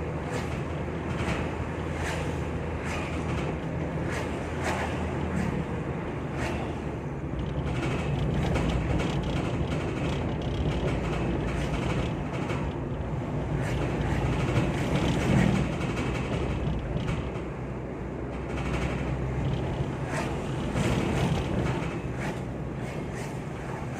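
Vehicle running on the road, heard from inside, with a steady low engine hum and road noise, over which a keranda (metal funeral bier) rattles and clicks again and again: the strange sound from the bier.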